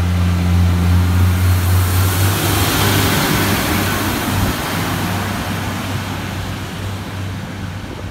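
Diesel train's engine droning low, then giving way to a broad rush of noise that swells about three seconds in and fades steadily as the train moves away.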